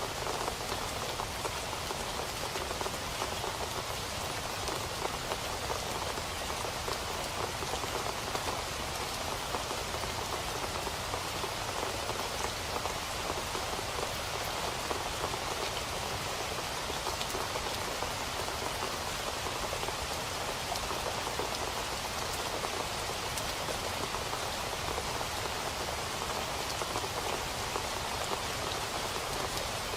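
Steady rain falling on a surface, an even hiss full of fine, close drop patter that keeps up without letting up.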